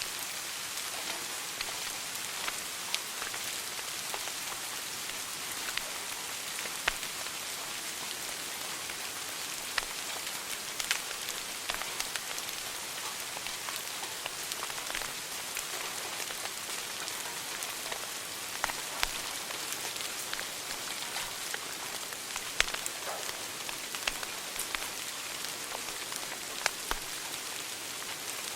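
Wood fire crackling in a fireplace: a steady hiss with sharp pops and snaps at irregular intervals, a few of them much louder than the rest.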